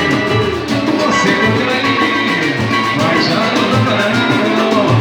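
A band playing a song with a steady drum beat, in a passage without sung words.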